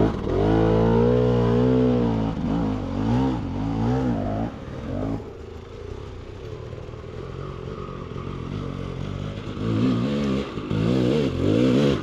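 KTM 300 XC-W two-stroke dirt bike engine revving up and down repeatedly under throttle, easing to a quieter low-throttle run for the middle few seconds, then revving hard again near the end.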